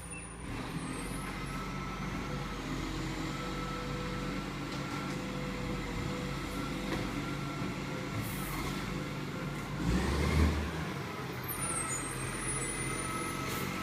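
Rubbish truck engine running steadily, with a louder low rumble about ten seconds in.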